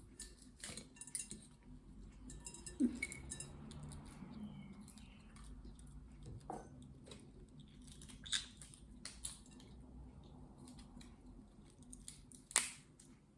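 Scattered small clicks and taps of a green-cheeked conure's beak working at walnut pieces and bits of shell, with one sharper crack near the end.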